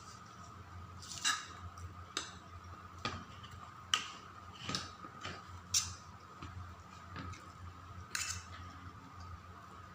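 Close-up eating sounds: chewing and sharp mouth clicks at an irregular pace, roughly one a second, over a faint steady hum.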